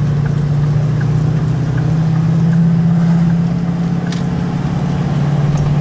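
Road vehicle driving at steady speed, heard from inside the cab: a steady engine and road drone with a strong low hum.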